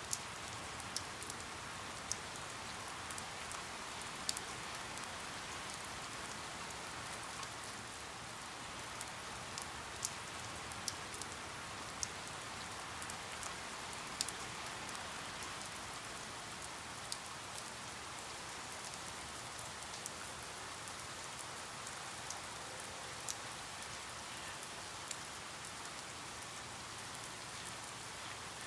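Steady rain falling, an even hiss with scattered sharper clicks of single drops striking a surface every second or so.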